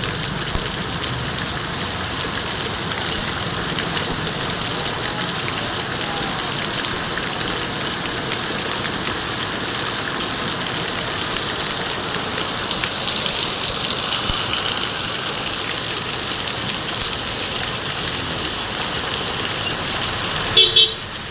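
Heavy rain falling in a steady hiss, with a vehicle engine running beneath it. Two short beeps sound just before the end.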